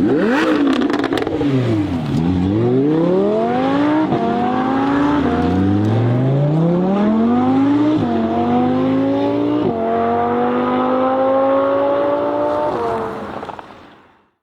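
A sports car's engine accelerating hard through the gears. The pitch climbs and then drops at each of about four upshifts, with a few crackles from the exhaust at the start, before the sound fades out near the end.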